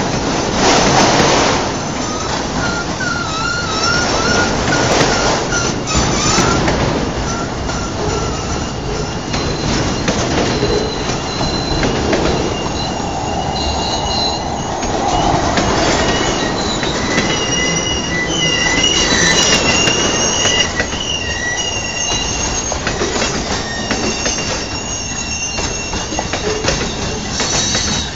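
Freight train cars rolling past close by, steel wheels on rail clattering, with thin wavering high-pitched wheel squeal coming and going.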